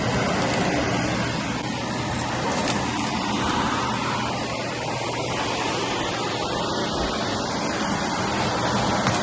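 Vacuum cleaner running steadily over carpet, a continuous motor hum and suction rush.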